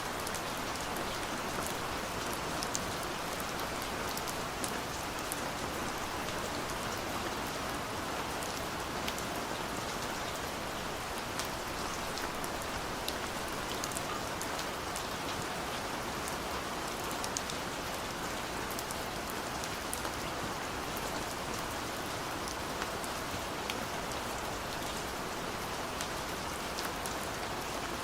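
Steady rain falling, an even hiss with many small drops pattering on a surface, with no thunder.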